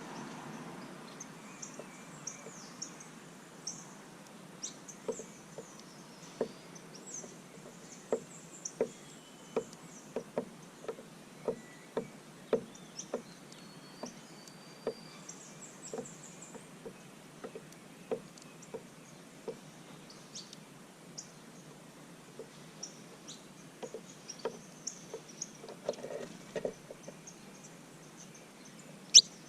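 Small birds at a seed feeder: light, irregular knocks of beaks pecking, about one a second at times, with scattered high chirps. A sharper, louder knock comes near the end.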